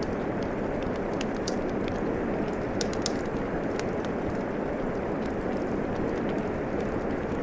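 Steady rainfall mixed with a crackling wood fire in a fireplace, with irregular sharp pops and snaps from the fire over the even rush of the rain.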